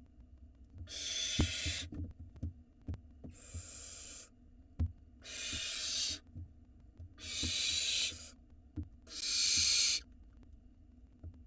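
Barn owl nestlings giving their hissing begging calls: five harsh hisses of about a second each, about two seconds apart, with small knocks and scuffles in the nest box between them.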